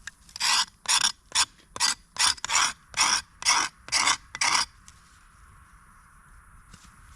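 About ten short rasping scrapes in a steady rhythm, a little over two a second, stopping a little under five seconds in.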